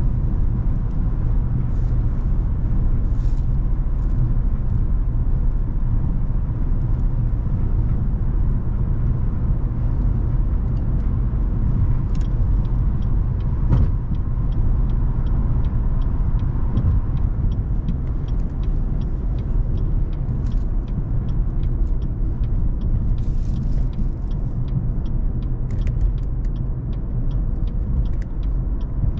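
Cadillac CTS 3.6 twin-turbo V6 car on the move, a steady low engine and road rumble with no sharp revving.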